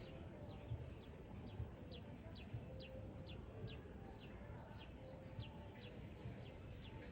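A bird calling in a fast, steady series of short, high notes that slide downward, about three a second, faint against background hiss. It is agitated calling by birds stirred up against monkeys in their territory.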